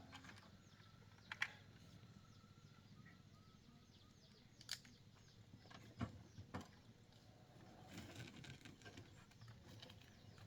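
Faint outdoor ambience with small birds chirping and a few scattered sharp clicks or knocks.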